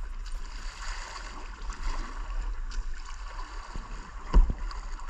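Rushing white water of river rapids with a low rumble, and one loud thump a little after four seconds in.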